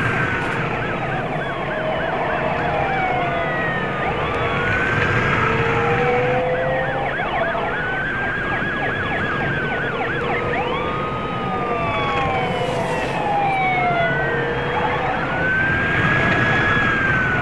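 Several emergency-vehicle sirens sounding at once, their wails rising and falling and overlapping, with a fast yelp near the start and again around the middle, over a steady low hum.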